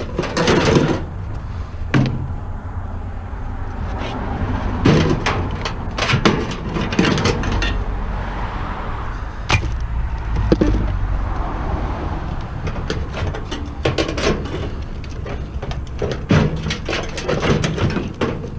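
Scrap microwave parts being handled and pulled apart: irregular metal clanks, knocks and scrapes, over a steady low rumble.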